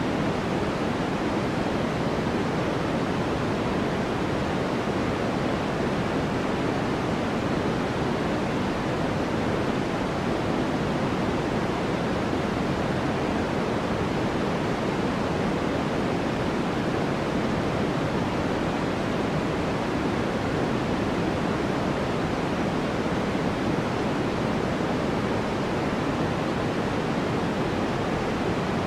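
Steady white noise, an even hiss with no changes, fuller in the low and middle range than in the treble.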